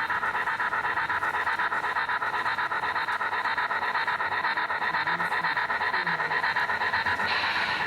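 HO-scale model train running on the layout track: a steady whir with a fast, even pulse, and a brief brighter hiss near the end.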